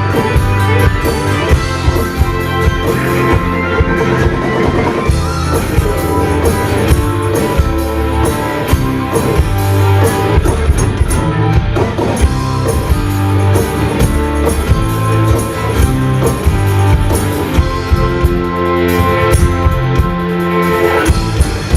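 Rock band playing live: electric guitars, bass and drum kit in a steady instrumental passage.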